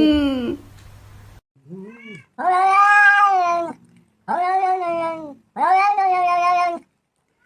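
A cat meowing: one short call, then three long, drawn-out meows in a row.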